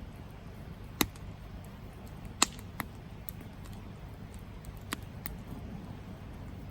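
Campfire burning: a steady low rumble with sharp crackles and pops at irregular moments, about five clear ones, the loudest about two and a half seconds in.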